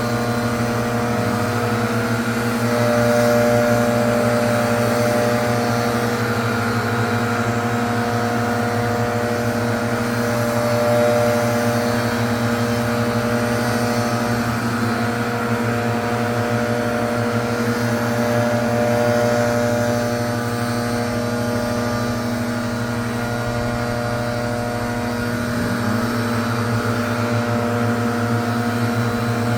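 Gas-powered leaf blower's small engine running steadily at high throttle, its level swelling a little now and then.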